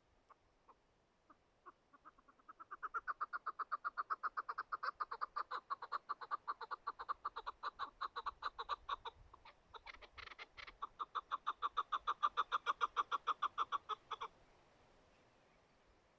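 Chukar partridge calling: a long run of clucking notes that starts with a few spaced clucks and speeds up into a fast, even chuck-chuck series. It breaks briefly about ten seconds in, resumes, and stops near the end.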